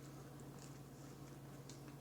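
Near silence: room tone with a steady low hum and a few faint, soft ticks.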